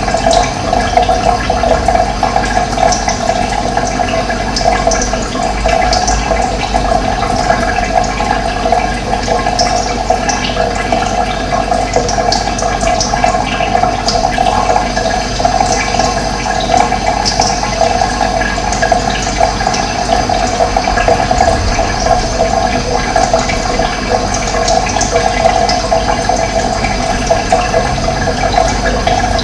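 Running water flowing steadily, with short high bird chirps scattered throughout.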